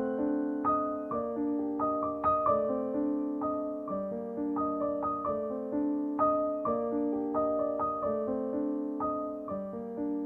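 Gentle piano music: a steady flow of soft, ringing notes.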